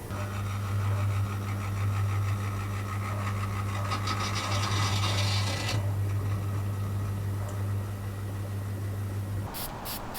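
Small electric power tool, such as a sander, running with a steady low hum and working against wood, the abrasive hiss strongest for a couple of seconds in the middle. The motor stops near the end.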